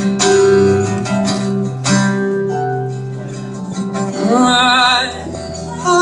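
Acoustic guitar strumming chords of a song, with a wavering sung note coming in about four seconds in.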